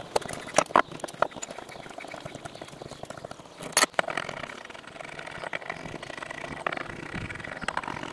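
Hand work on cast iron workbench parts: irregular clicks and knocks of metal tools, the sharpest knock about four seconds in, over a faint scraping.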